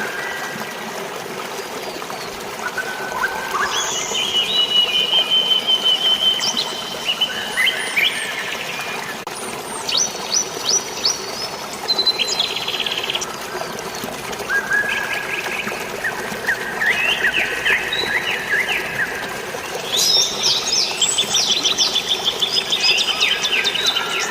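Several birds chirping and singing over one another, with quick trills and repeated chirps, over a steady hiss of water or light rain.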